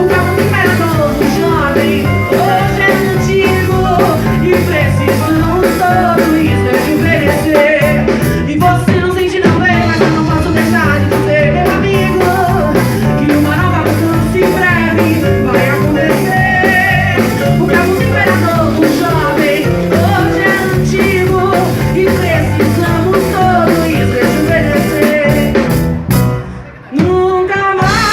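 A singer performing a song with a band: sung melody over bass and guitar. The music drops out sharply for about a second near the end, then comes back.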